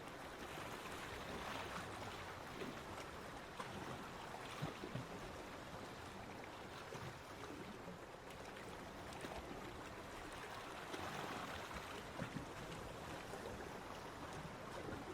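Small waves washing on a beach, a steady rush of surf that swells and eases slowly, louder about a second and a half in and again about eleven seconds in.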